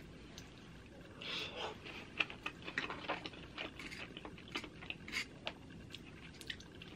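Close-miked chewing with wet mouth clicks and smacks, mostly between about one and five and a half seconds in.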